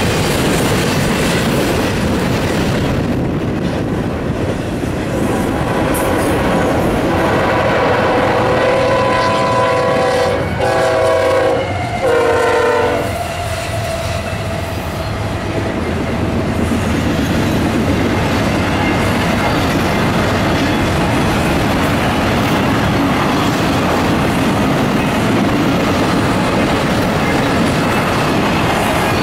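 Two freight trains passing at once, their wheels making a steady rumble and clatter on the rails. About six seconds in, a CSX diesel locomotive sounds its multi-note horn, which drops in pitch as the locomotive goes by and stops about thirteen seconds in. The wheel noise of the passing cars carries on after the horn stops.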